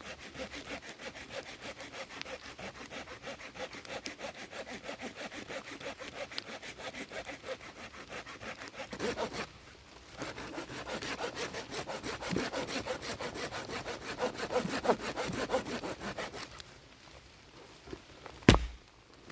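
Hand saw cutting through wood in quick, even back-and-forth strokes. The sawing pauses about halfway through, resumes, then stops, and a single sharp knock follows near the end.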